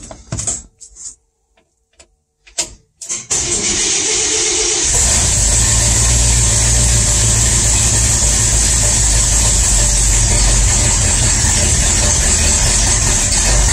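A few clicks and knocks, then a V8 engine cranked on the starter with choke on a cold start; it catches about five seconds in and runs loud and steady through an exhaust full of holes. It is now firing on all eight cylinders after a broken pushrod was replaced.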